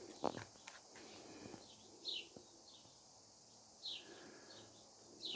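A bird calling with short, high chirps that slide downward, about five spaced through the last few seconds over faint outdoor background noise. A few soft knocks come in the first second.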